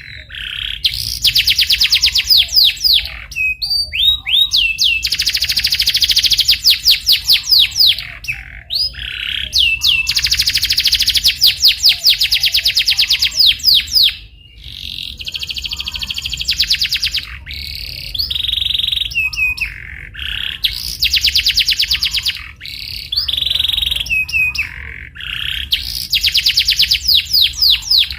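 Domestic canary in full song: long phrases of very fast rolling trills and repeated chirps, broken by short pauses and single rising and falling notes.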